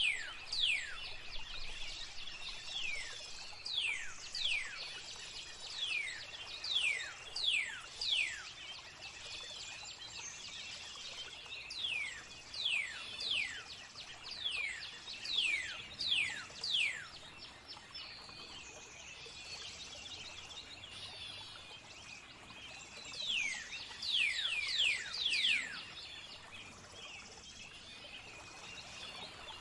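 Birdsong: runs of quick, steeply falling whistled notes, coming in bursts with quieter gaps in between, over a steady hiss of flowing water.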